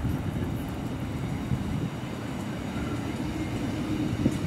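Diesel regional multiple unit passing slowly close by, a steady low rumble of its engine and wheels on the rails.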